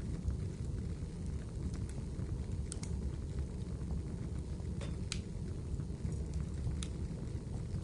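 Wood fire in a fireplace crackling, with scattered small clicks and a few louder pops over a steady low rumble.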